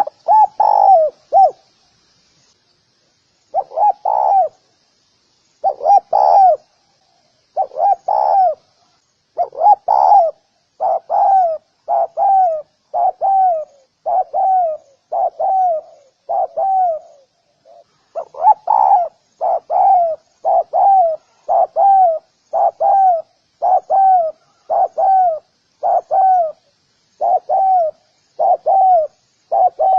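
Spotted dove cooing: a long run of short, slightly falling coo notes, about one a second, some in quick pairs. Faint high chirps sound in the first few seconds.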